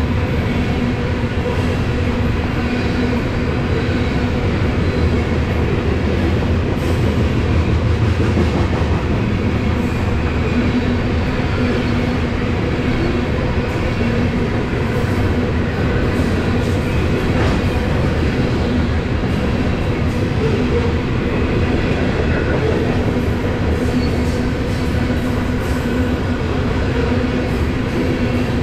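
BNSF covered hopper cars of a freight train rolling past at speed: a loud, steady rumble of steel wheels on the rails, with a low hum and a few clicks along the way.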